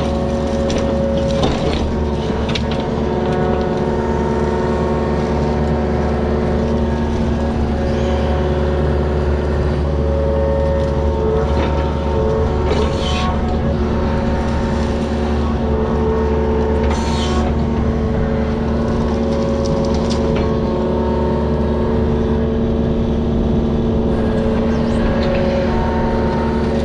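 Diesel engine of an excavator or similar digging machine running steadily, with a couple of brief sharp noises partway through.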